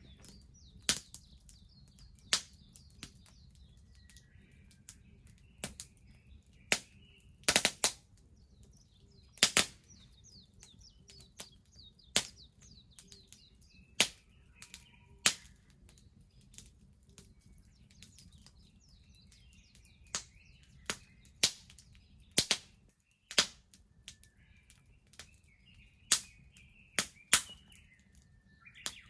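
Wood bonfire crackling: sharp pops at irregular intervals, the loudest about eight and ten seconds in. Birds chirp and twitter softly in the background.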